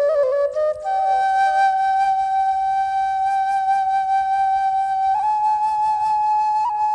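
Music: a single flute-like wind instrument playing a few quick notes, then one long held note, stepping up to a slightly higher held note a little after five seconds in.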